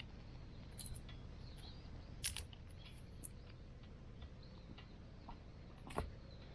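Scattered sharp clicks and cracks over a low steady background, two louder ones about two seconds and six seconds in.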